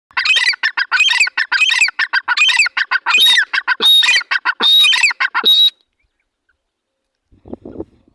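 Teetar (francolin) calling: a loud, rapid series of harsh repeated notes for about five and a half seconds, then it stops suddenly. A brief, quieter low sound follows near the end.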